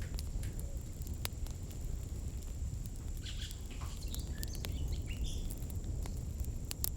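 Campfire burning with a low rumble and scattered sharp crackles and pops from the firewood. A few short chirping calls come about three to five seconds in, over a steady thin high tone.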